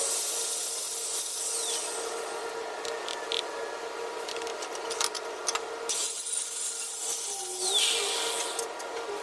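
A hand tool scraping and rubbing over tile and cement in steady strokes, with a few short clicks, over a steady hum.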